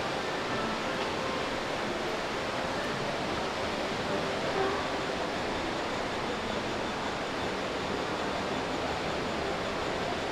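Steady ambient noise of a shopping mall walkway, a constant hiss with faint distant voices mixed in.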